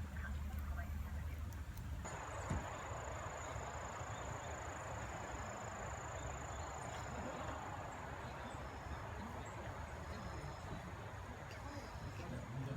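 Insects trilling in one high, steady, unbroken note that starts abruptly about two seconds in, over a steady hiss and low rumble.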